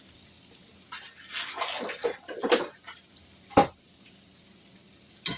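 Hot oil sizzling steadily in a pan as day-old rice goes in, with rough scraping and shuffling from about one to three seconds in. A sharp knock comes midway and another near the end.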